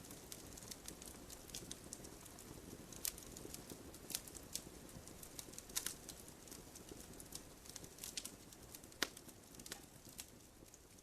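Wood fire burning in a wood stove: frequent small crackles and a few sharper pops, the loudest about nine seconds in, over a soft low rumble.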